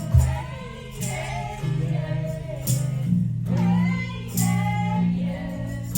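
Live acoustic duo music: a voice singing a melody over acoustic accompaniment, with the low chord changing about three seconds in.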